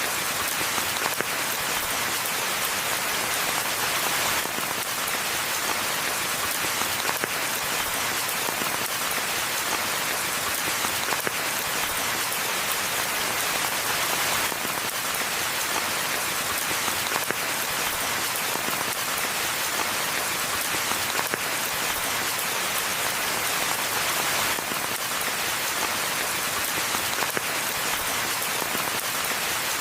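Steady rain falling on a forest path and foliage, an even hiss with many small drop patters throughout.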